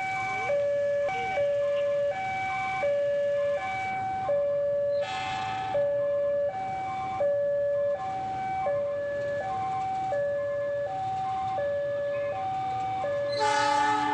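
Railway level-crossing warning alarm sounding a steady two-tone alternating chime, about one high-low cycle every second and a half. Near the end a train horn starts to blow over it.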